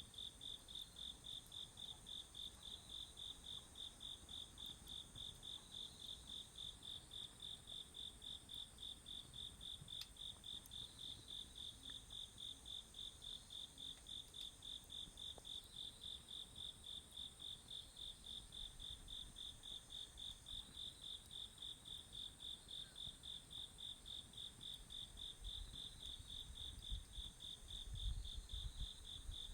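Crickets chirping in a steady, even pulse of about three chirps a second, with another insect's continuous high trill above them. A brief low rumble comes near the end.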